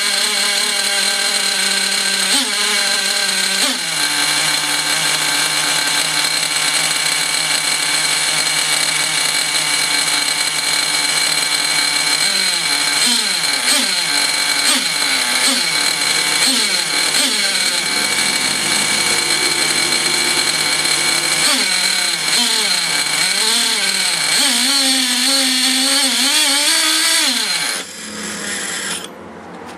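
O.S. Max two-stroke nitro model engine running at high speed on its first run after restoration, its speed wavering up and down and then cutting out near the end. It runs rough, which the owner blames mostly on two-year-old fuel, an exhaust not suited to the engine and a rich break-in needle setting.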